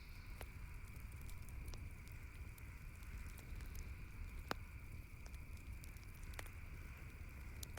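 Campfire crackling: a few scattered sharp pops, the loudest about halfway through, over a steady low rumble.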